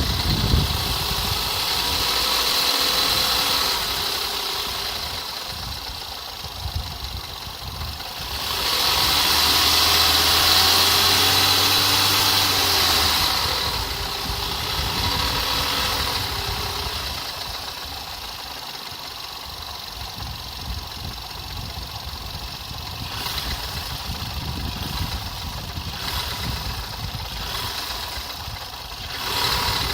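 Skoda Fabia RS engine running with a knock in it, with a louder stretch of a few seconds starting about nine seconds in.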